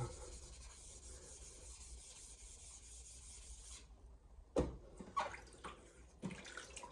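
Steady abrasive rubbing in knife sharpening, a scraping hiss that stops abruptly about four seconds in, followed by a few light knocks and taps.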